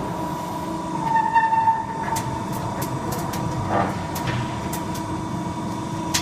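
Hydraulic sheet-metal shear's pump motor running with a steady hum, a brief stronger whine about a second in, and faint light ticks.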